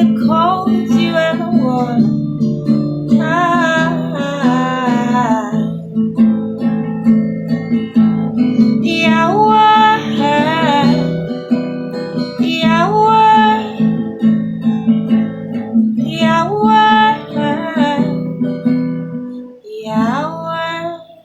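Acoustic guitar strummed in a steady pattern, with a wordless sung melody in phrases over it. It winds down and stops near the end, closing the song.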